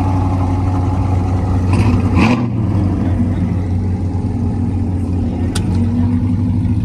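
A car engine idling steadily, with a brief rush of noise about two seconds in and a single sharp click a little after five seconds.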